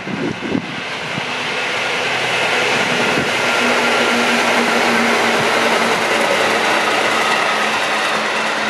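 Electric multiple-unit passenger train passing close by on the JR Utsunomiya Line. Its wheel-on-rail running noise builds to a peak in the middle, carrying a steady hum, and eases slightly near the end. A few low thumps sound at the very start.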